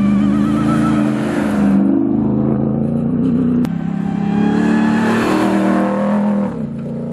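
Ram 1500 TRX's supercharged 6.2-litre HEMI V8 running under throttle, its pitch shifting up and down. A short sharp click comes about three and a half seconds in.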